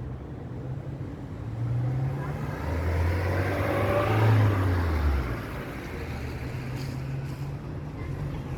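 A motor vehicle passing by: a low engine drone with road noise swells from about two seconds in, is loudest around four seconds, then fades, over a steady low background hum.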